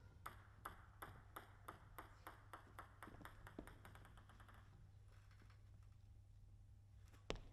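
Plastic table tennis ball clicking against bats and table at about two to three clicks a second, then a quick run of fainter bounces dying away as the ball comes to rest. One sharper click near the end.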